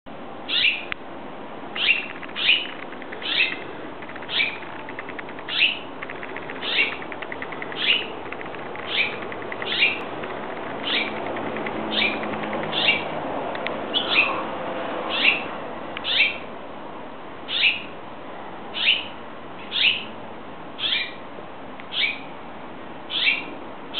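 A bird calling over and over at a cat, about one short call a second, each call falling in pitch.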